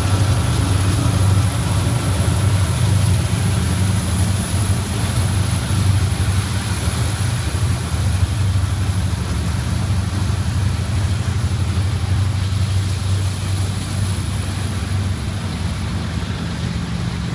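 Union Pacific freight train passing: a steady low rumble from its diesel locomotives and rolling freight cars. It eases off slowly near the end as the locomotives pull away.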